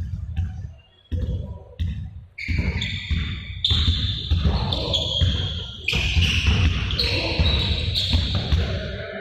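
Rapid repeated thuds echoing in a large hall, with high squeaks over them from about two and a half seconds in.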